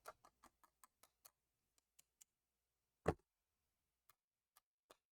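Faint ticking of black embossing powder grains falling onto the stamped card, fast at first and then thinning out to scattered ticks. A single louder knock comes about three seconds in.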